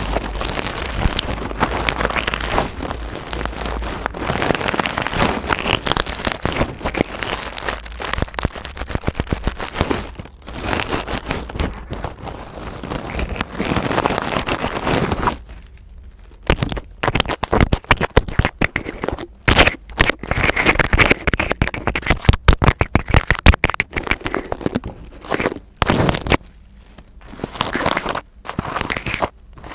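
Close-miked ASMR trigger sounds: continuous scratching and rustling on a textured object for about the first half, then, after a short pause, quick runs of crisp tapping and scratching strokes with brief gaps between runs.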